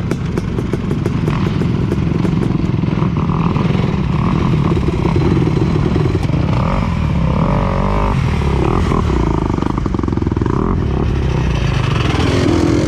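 Dirt bike engine running steadily, with a few sharp clicks in the first couple of seconds.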